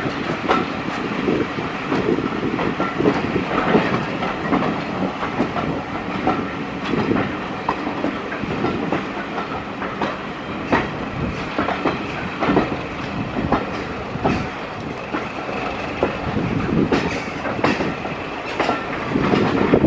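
A moving passenger train: the steady rumble of the coach running on the rails, with the clickety-clack of wheels crossing rail joints at irregular intervals.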